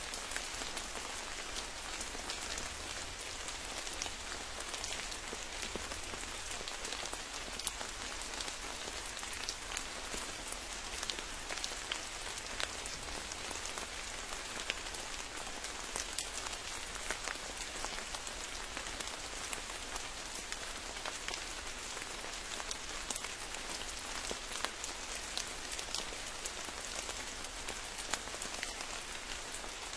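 Steady rain falling, a dense even hiss dotted with the ticks of individual drops striking leaves and surfaces.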